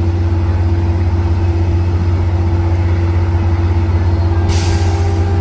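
Caltrain MP36 diesel locomotive running, a loud steady low drone with a constant hum above it. A short burst of hiss comes in about four and a half seconds in.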